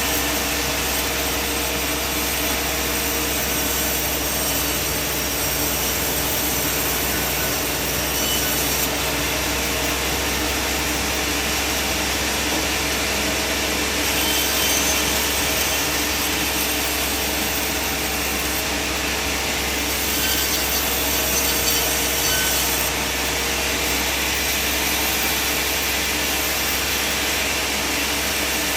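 Band sawmill cutting through a log: the blade runs steadily through the wood over the machine's constant hum.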